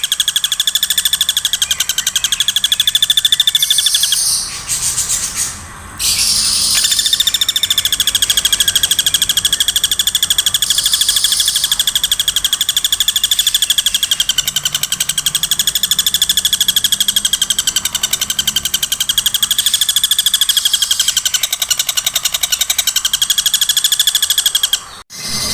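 Woodpecker's rapid rattling call, repeated without pause: a fast, continuous trill whose pitch wavers slightly. It breaks briefly about five seconds in and again just before the end.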